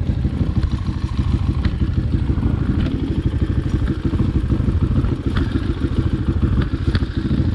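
Dirt bike engine running at a steady level with a fast, low pulsing beat, with a few light clicks and knocks over it.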